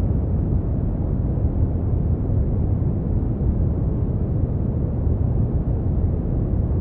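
Synthetic brown noise: a steady, deep rumbling hiss, heaviest in the bass and fading off towards the treble, unchanging throughout.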